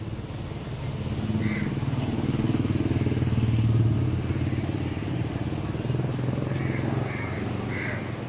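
Motorbike engine going past on the street, growing louder to a peak about four seconds in and then easing off, with a second swell a couple of seconds later.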